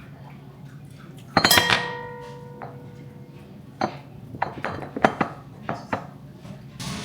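Kitchen utensils and dishes clattering while a drink is mixed. About a second and a half in comes one loud knock that rings for about a second, followed by a run of sharper clinks.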